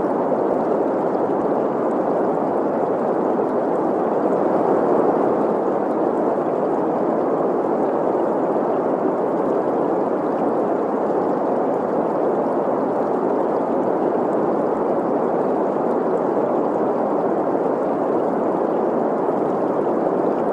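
Steady synthesized green noise, an even hiss centred in the middle of the range, mixed with the sound of a flowing stream.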